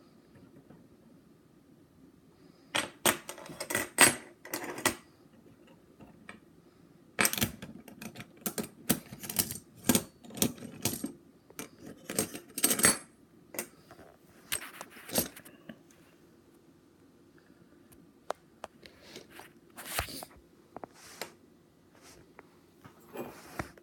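Silver bullion coins clinking and clicking against one another as they are handled, in quick clusters of sharp clinks, with a few scattered clinks near the end.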